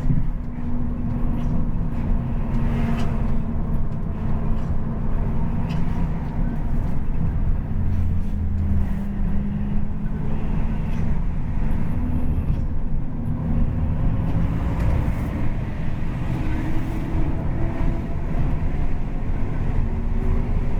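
Po Haryanto bus engine and racing exhaust running on the road, a steady low rumble whose engine note drifts up and down in pitch.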